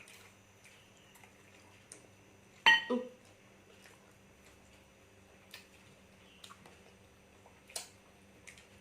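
Quiet eating at a table with small scattered clicks of utensils, and a little under three seconds in a single sharp clink of tableware that rings briefly, followed by a softer knock.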